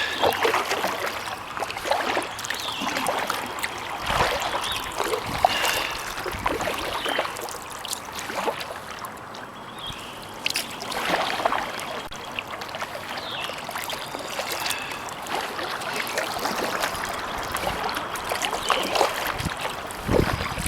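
Kayak paddle strokes splashing in the water, with water trickling and dripping off the paddle blades between strokes.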